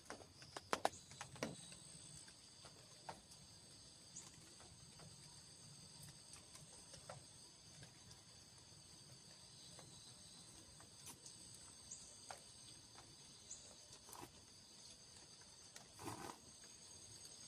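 Quiet, steady high-pitched chirring of an insect chorus, with several sustained tones. Scattered soft clicks and taps break in, a cluster about a second in and another near the end.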